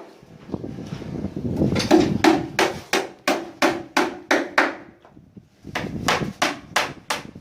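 Carpenter hammering on wood, steady blows at about three a second, with a short pause partway and a second run of strikes near the end. A rougher, duller noise comes before the first strikes.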